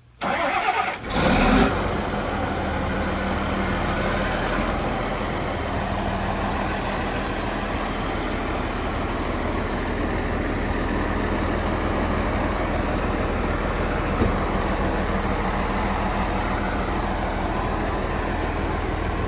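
John Deere 300D articulated dump truck's JD6081H six-cylinder diesel engine starting: it cranks and catches with a loud surge in the first second and a half, then settles to a steady idle.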